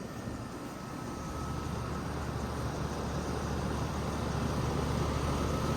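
Outdoor air-conditioner condensing unit running: a steady low compressor hum with fan noise and a faint steady whine, growing gradually louder.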